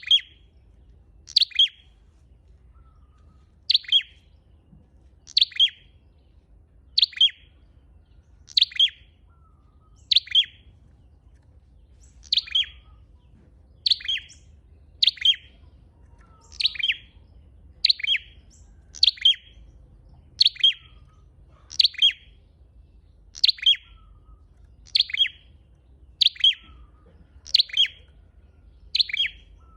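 Flowerpecker ('chim sâu đầu đỏ', red-headed flowerpecker) calling over and over in a lure recording: a short, sharp, high falling double note repeated about every second and a half, some twenty times.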